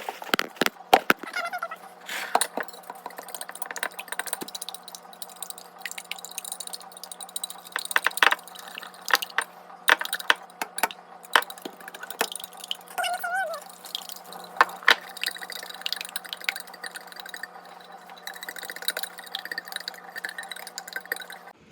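A wire whisk beating eggs in a glass container: quick, irregular clicks and taps of the wires against the glass, with wet sloshing.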